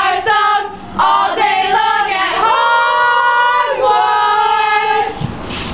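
Girls' voices singing together without accompaniment, with one long held note in the middle.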